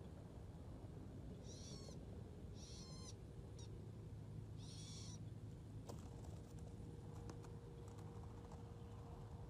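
A small bird calling in three short bursts of rapid high chirps, followed by a few faint clicks.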